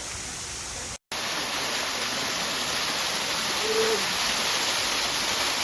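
Waterfall rushing steadily. About a second in it cuts out for an instant and comes back louder, and a brief low tone sounds just under four seconds in.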